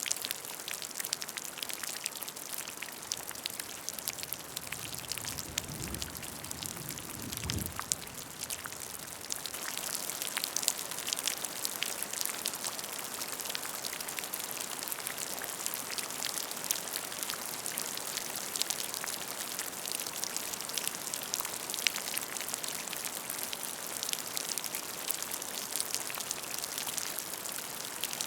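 Rain falling on a puddle: a steady patter of raindrops splashing into water, with a brief low rumble from about five to eight seconds in.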